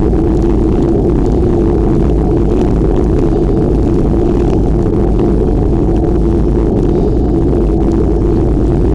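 Loud, steady low rumble of wind buffeting the microphone on a moving bicycle.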